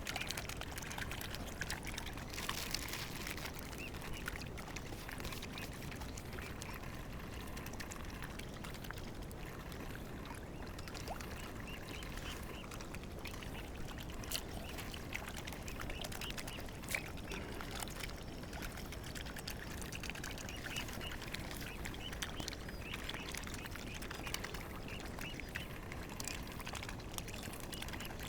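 Water lapping and trickling, with scattered small splashes and faint short calls of mute swans.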